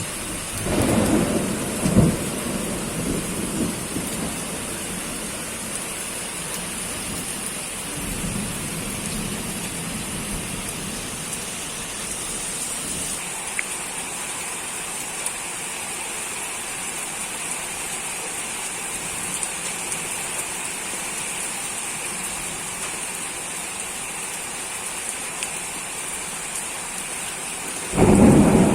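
Steady rain hissing down, with thunder rumbling in the first few seconds and again near the end.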